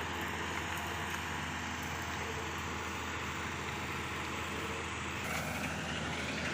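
Eicher Pro truck's diesel engine running steadily at idle, with a broad hiss that grows louder about five seconds in.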